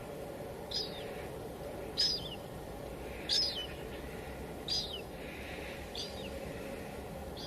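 A bird repeating a short, high, falling chirp five times, about one every second and a quarter, over a steady hiss of light rain.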